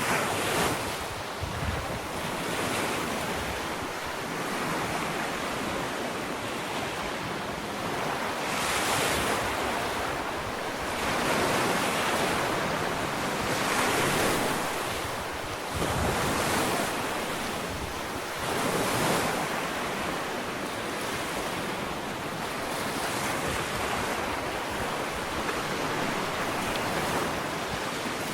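Ocean waves breaking and washing up on a sandy beach, a steady surf that swells and falls every few seconds.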